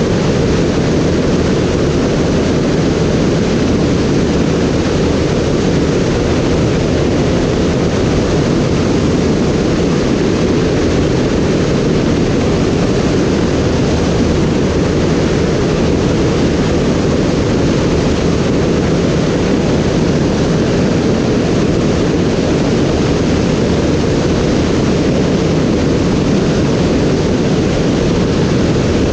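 Steady aircraft noise, engine and rushing air, heard from on board in flight. It stays at the same level and pitch throughout, with no breaks.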